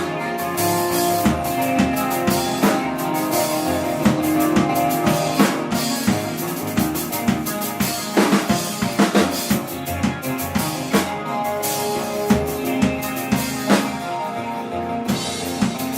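A rock band playing live, with the drum kit to the fore: regular kick and snare hits and a constant wash of cymbals over sustained pitched instruments.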